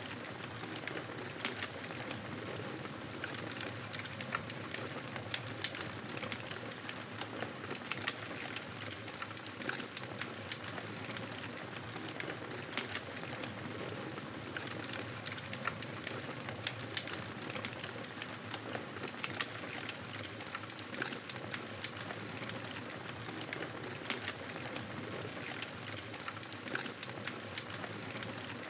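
Fire in a fireplace crackling steadily, with frequent sharp pops and snaps over a soft, even hiss.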